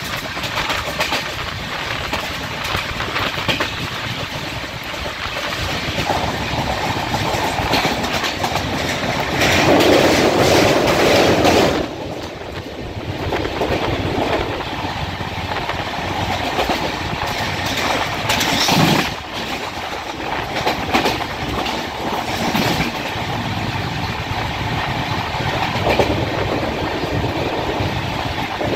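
Train running, heard from on board: a steady rumble of wheels on the rails with clickety-clack over the rail joints. It swells louder for a couple of seconds about a third of the way in, then drops off abruptly.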